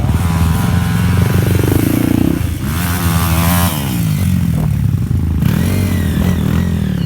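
Trail motorcycle engine revving hard under load as it climbs a steep hill, the revs rising, dropping and rising again with throttle and gear changes.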